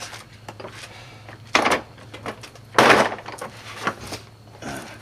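Two loud knocks, the second longer, among lighter metal clicks, as a CV axle's splined inner end is forced into a Honda Civic's transmission until it pops into place.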